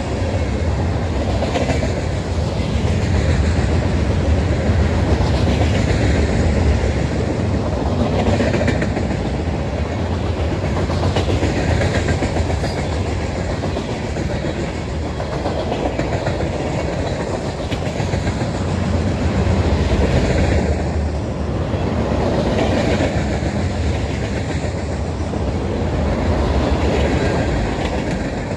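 Train rolling past, its wheels clattering on the rails in a steady loud rumble that swells and eases every few seconds.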